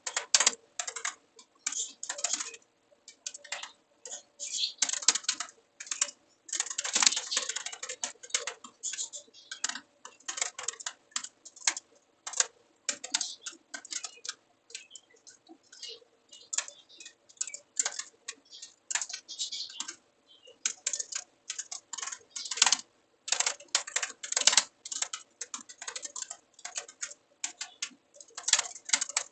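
Computer keyboard typing in irregular bursts of rapid keystrokes, broken by short pauses.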